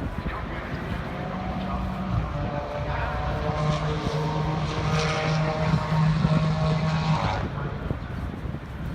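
An engine drones at a steady pitch, stepping down slightly about two seconds in and cutting off abruptly about seven seconds in.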